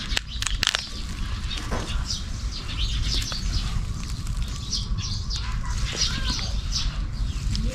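Small birds chirping over and over, with scattered sharp clicks and taps and a steady low rumble. About six seconds in there is a short call that bends in pitch.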